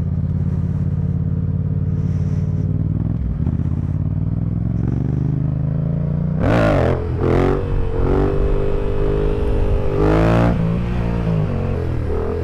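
Motorcycle engine idling steadily, then revved three times in short throttle blips about six, seven and ten seconds in, the pitch rising and falling with each.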